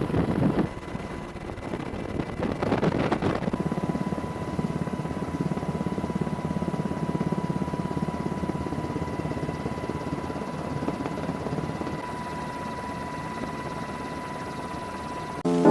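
Helicopter rotor chopping steadily in a fast, even beat, with a faint steady high tone joining about four seconds in.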